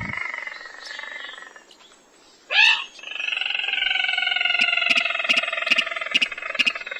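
Lure-call recording of a rail, the sintar or mandar padi, giving long nasal calls of several stacked tones that slowly fall in pitch. A short loud sweeping note comes in the middle, and sharp clicks are spaced through the calls.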